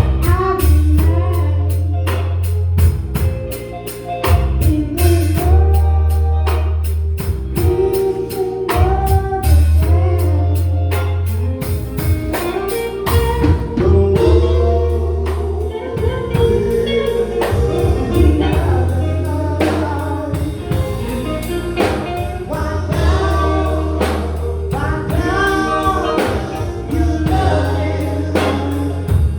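Live gospel music: voices singing over a band with a drum kit keeping a steady beat and long deep bass notes.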